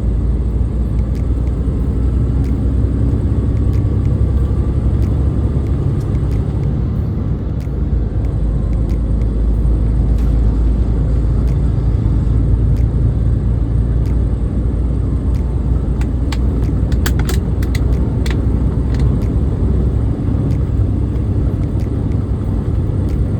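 Steady low rumble of a 2022 International semi-truck's diesel engine and road noise, heard inside the cab while driving. A few light clicks come in a cluster past the middle.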